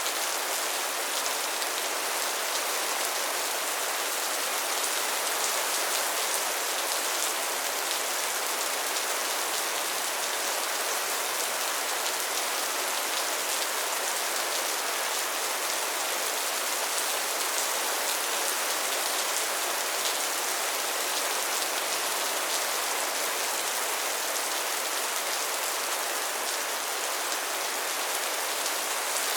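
Steady rain falling, an even hiss with a fine patter of individual drops, unchanging throughout.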